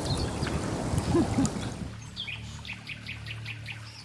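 Songbird chirping: a quick run of short high chirps starts about halfway in, over a faint steady low hum. In the first half, an outdoor rushing noise fades away.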